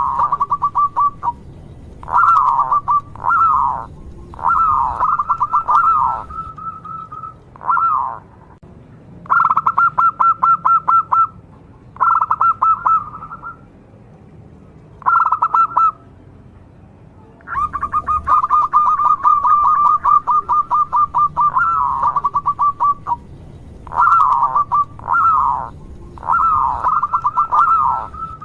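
Zebra dove (perkutut) cooing in repeated phrases of fast, rolling pulsed notes on a steady pitch, each phrase about one to a few seconds long with short pauses between. The longest phrase runs about five seconds, starting just past the halfway point.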